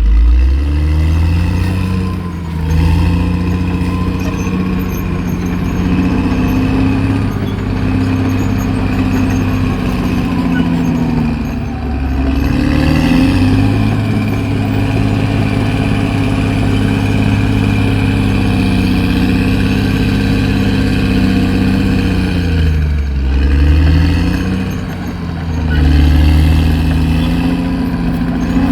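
Caterpillar D6R XL bulldozer's diesel engine running hard, its pitch dipping and climbing back several times as the load on the machine changes.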